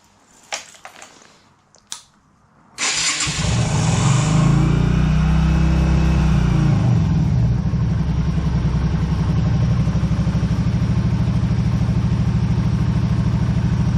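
Yamaha Virago XV250's air-cooled V-twin started from cold on choke. After a couple of faint clicks, it fires and catches just under three seconds in, runs higher for a few seconds, then settles into a steady, evenly pulsing idle.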